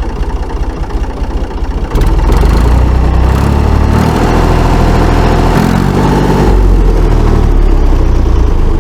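Ford 3600 three-cylinder diesel tractor engine running, just after starting. About two seconds in it is revved up, getting louder and rising in pitch, and it then holds at the higher speed.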